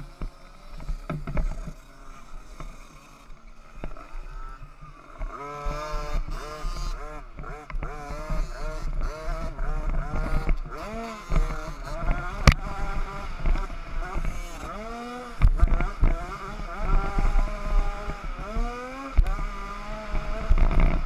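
Small two-stroke 50cc motocross bikes revving, engine pitch rising and falling over and over as they race, louder from about five seconds in. Wind rumbles on the microphone, and there is a sharp knock about twelve seconds in.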